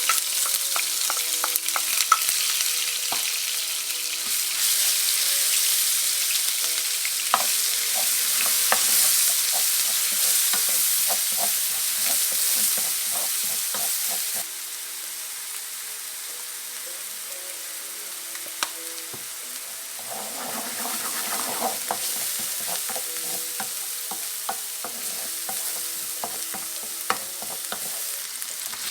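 Food sizzling in hot oil in a pan while a utensil stirs it, with frequent scrapes and taps against the pan. The sizzle drops down in level about halfway through.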